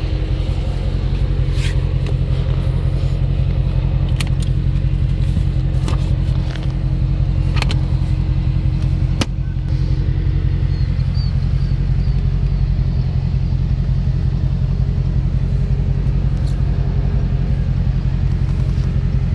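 The 6.4-litre (392) Hemi V8 idling with a steady low rumble. A few sharp clicks are heard over it.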